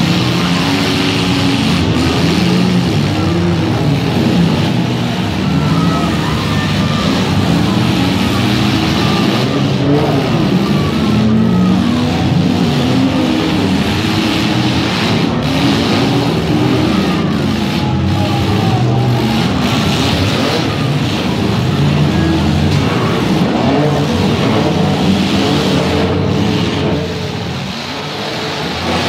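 Several demolition derby cars' engines revving up and down at once, pitches rising and falling continuously.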